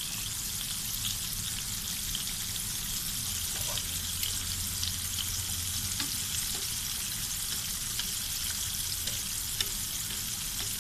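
Coated chicken leg pieces deep-frying in hot oil in a pan: a steady sizzle with scattered small crackles.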